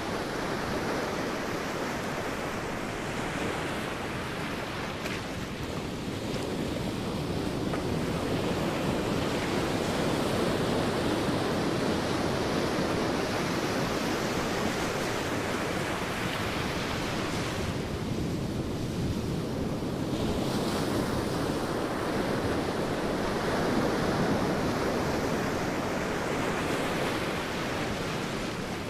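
Sea waves washing onto a beach, a continuous surf that swells and eases every few seconds, with some wind across the microphone.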